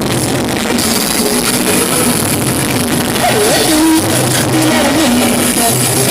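Loud music played over DJ sound-system speakers.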